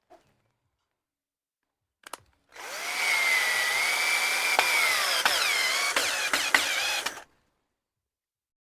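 Power drill running for about five seconds, its motor pitch wavering as the trigger is worked, with a few sharp clicks, then cutting off.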